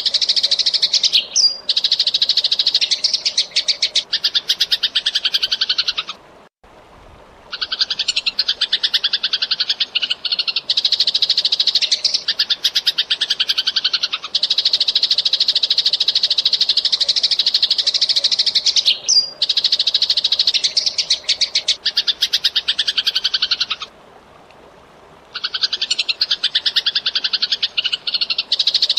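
Eurasian tree sparrow chirping rapidly and continuously in long, dense runs of high chirps, broken by two short pauses about six seconds in and near the end.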